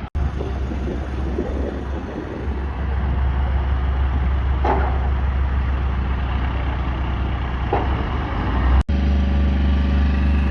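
Truck-mounted crane's engine running steadily with a low hum, cut off abruptly twice for an instant.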